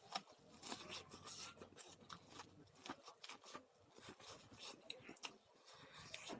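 Popcorn being chewed close to the microphone: soft, irregular crunches and mouth clicks.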